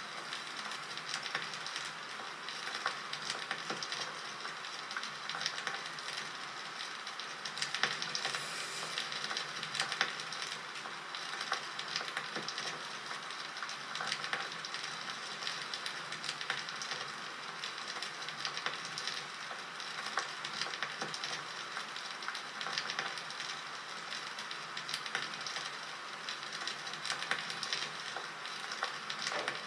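Crackling campfire: a steady hiss of burning wood with many irregular sharp pops and snaps.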